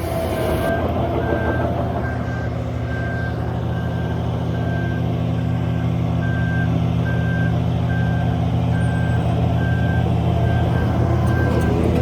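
Heavy earthmoving machine's diesel engine running steadily under load while its reverse alarm beeps about twice a second: the machine is backing up.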